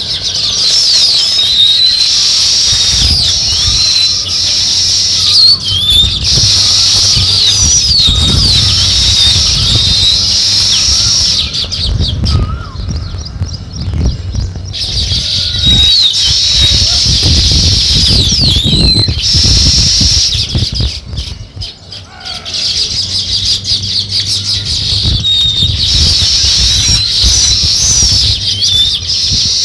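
A flock of small songbirds chirping and chattering densely, many short high calls overlapping, over a low fluttering rumble. The chatter thins out twice, for a few seconds around halfway and again briefly near the two-thirds mark.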